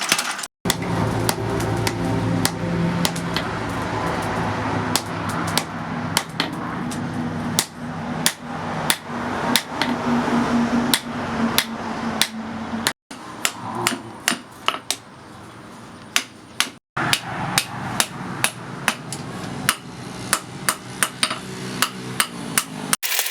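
Blacksmith's hammer striking leaf-spring steel in irregular sharp blows, roughly one or two a second, over a steady mechanical hum. The sound cuts out briefly a few times.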